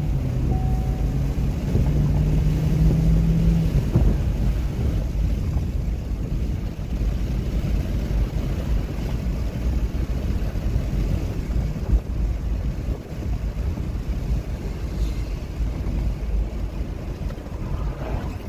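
2020 Chevrolet Equinox's 1.5-litre turbocharged four-cylinder engine running under way, heard with steady road and wind noise. A steady engine drone for the first few seconds gives way to a mostly low road rumble. The engine is breathing through a stock airbox modified with extra holes and a K&N drop-in filter, which gives it a slightly deeper growl.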